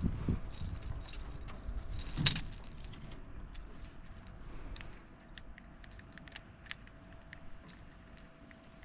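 Small clicks and light rattling of gear being handled in a canoe, with a dull knock at the start and another about two seconds in.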